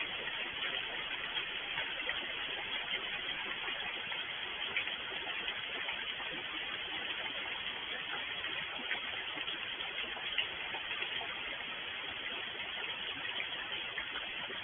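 Steady rain falling: an even hiss with scattered small drop ticks and a few slightly louder taps.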